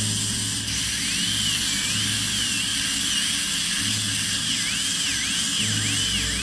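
High-speed dental drill whining steadily. Its pitch dips and recovers again and again, about ten times, as it is pressed against the tooth and eased off while cutting the cavity for a composite filling.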